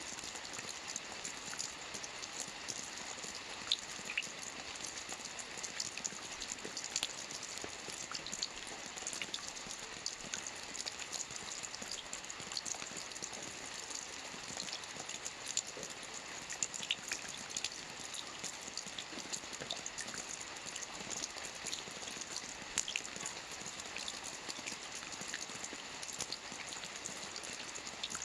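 Steady rain falling on a lake's water surface: an even hiss dotted with many sharp individual drop splashes.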